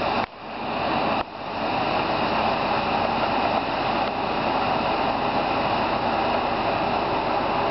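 Grain pouring from a silo outlet, a steady rushing flow that drops out briefly twice in the first second or so.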